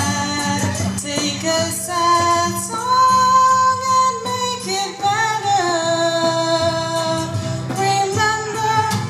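A woman singing long, held notes that slide between pitches, accompanied by a guitar.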